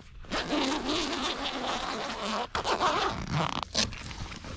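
A zipper being pulled open along the vehicle awning's cover, with the fabric rustling as the awning is unpacked. The rasping stops briefly twice.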